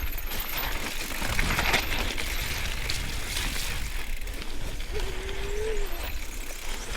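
Mountain bike on a rough, wet trail: steady tyre noise with chain and frame rattling, and a short whine about five seconds in.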